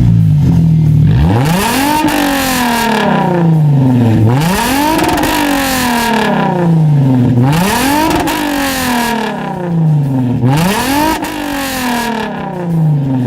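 Toyota Mark X V6 revved four times through a one-off muffler. Each rev climbs quickly, then falls slowly back toward idle. The exhaust note is high-pitched, which the owners put down to its narrow tailpipes.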